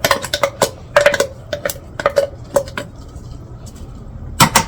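Utensil clinking against a cooking pot: a run of quick ringing taps for the first few seconds, then two sharp knocks near the end.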